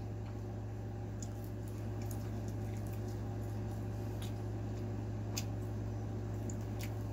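Chewing a bite of battered Chinese-style fried chicken: soft, scattered wet mouth clicks, over a steady low hum.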